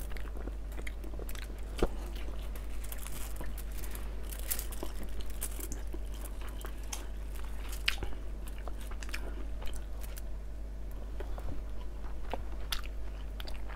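Two people eating with their hands, chewing and biting food with scattered soft crunches and small clicks. A sharper crunch comes about two seconds in and the strongest about eight seconds in. A steady low hum runs underneath.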